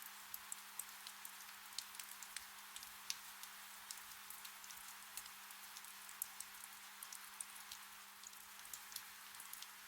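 Gentle rain falling in a forest: a faint steady hiss of rainfall with many irregular drip and drop ticks scattered through it. A faint low steady hum lies underneath.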